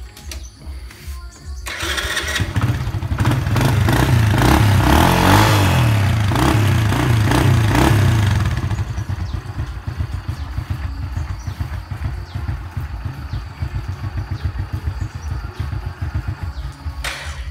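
Honda Dream II's small single-cylinder four-stroke engine running. About two seconds in it picks up and is revved for several seconds, then drops back to a steady putter at idle.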